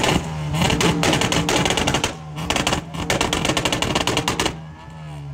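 A car engine revved hard and held at high rpm with a rapid stuttering pulse, the revs falling away near the end.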